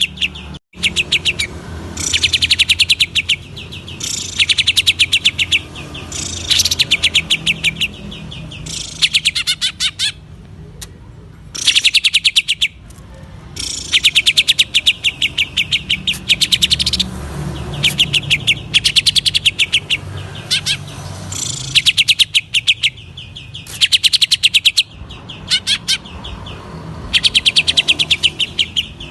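Green leafbird (cucak ijo) singing in bursts of very rapid, evenly repeated high notes, each burst about a second long, with a new burst every one to two seconds. This is the fast, stuttering 'ngentrok' song style. A steady low hum sits underneath.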